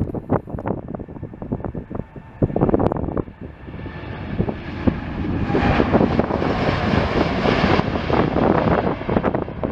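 Jet airliner's engines passing: the engine noise swells about four seconds in, is loudest over the middle of the stretch and eases near the end. Wind gusts buffet the microphone during the first three seconds.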